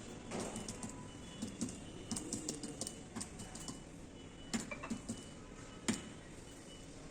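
Computer keyboard being typed on: faint, irregular light clicks and taps, several in quick runs, over low room noise.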